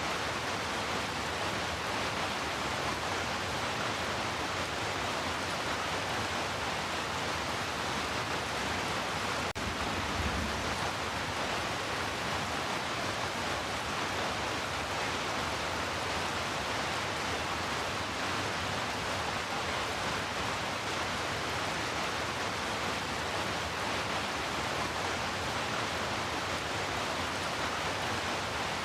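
Heavy rain falling in a steady, dense hiss, with a single brief low thump about a third of the way in.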